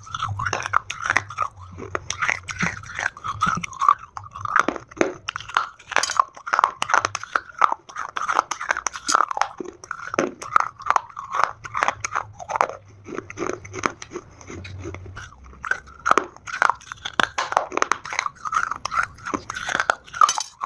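Dry Multani mitti (fuller's earth clay) being bitten and chewed close to the microphone: a dense, irregular run of crisp crunches.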